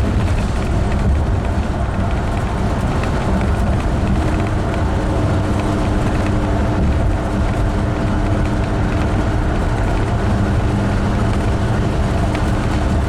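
Steady road and engine noise of a Class A motorhome driving at highway speed, heard from inside the cab, with a steady drone joining about four seconds in.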